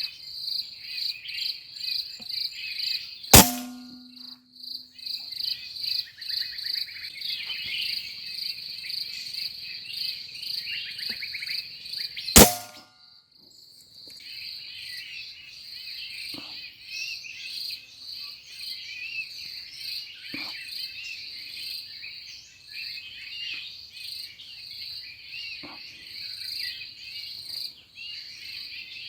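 Two sharp shots from a pre-charged pneumatic air rifle, about three seconds in and again about nine seconds later, over steady high insect buzzing and bird chirps. The insect chorus breaks off briefly after each shot.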